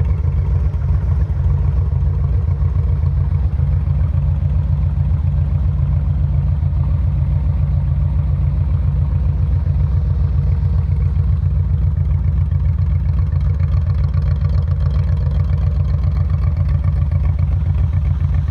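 2001 Yamaha V-Max's 1198 cc V4 engine idling steadily, still cold shortly after a cold start and not yet warmed up.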